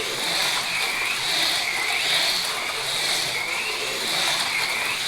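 AFX Mega G+ HO slot cars running on the track, their small electric motors whining, the pitch rising and falling again and again as the drivers throttle up on the straights and ease off for the turns.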